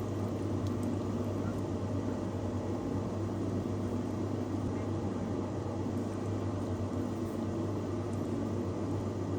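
A steady mechanical hum with a constant low drone underneath, unchanging throughout.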